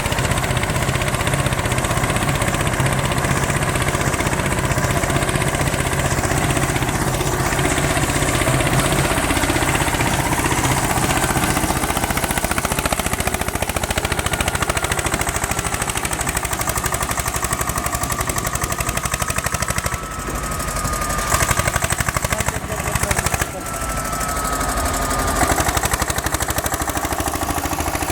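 Eicher 242 tractor's diesel engine running steadily with a fast, even beat. In the second half a faint, drawn-out whistle slides slowly down in pitch over the engine.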